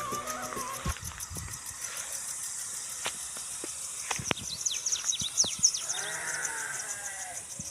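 Livestock bleating: one drawn-out, wavering call near the end, among scattered knocks and a run of quick high chirps. The tail of a music track fades out in the first second.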